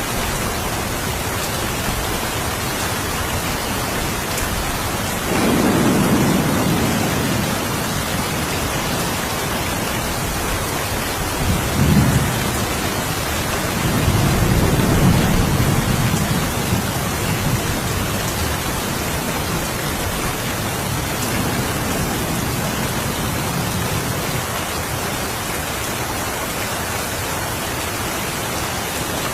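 Steady rain with thunder rumbling three times, about five, eleven and fourteen seconds in; the last roll is the longest.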